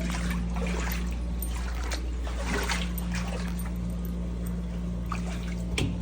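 Floodwater trickling and splashing over a steady low mechanical hum.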